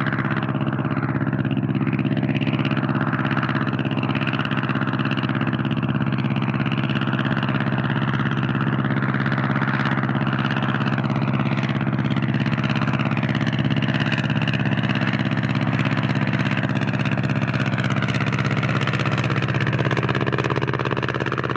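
Engine of a single-propeller Blériot monoplane circling overhead. A continuous drone at a steady level, its higher pitch wavering up and down as the plane moves.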